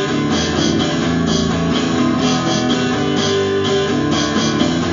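Instrumental intro of a song: guitars strumming and picking over a steady, repeating rhythm, before the vocals come in.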